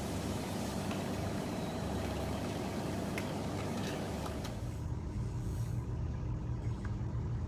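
Steady low machine hum with a few faint clicks about three to four seconds in.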